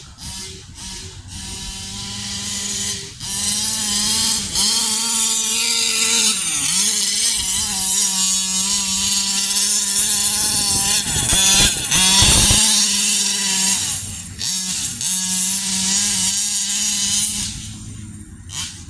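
45cc two-stroke engine of a fifth-scale RC Baja 5T, through a Big Gun exhaust, revving hard as the truck is driven, its pitch rising and falling with the throttle. It is loudest through the middle and weaker near the start and end.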